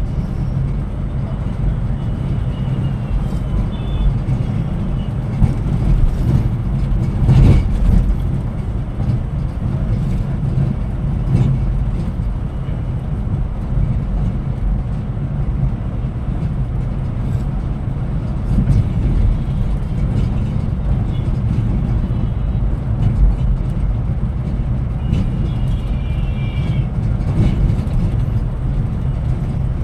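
A Scania Metrolink multi-axle coach on the move: a steady, loud low engine and road rumble, with one sharp knock about seven seconds in.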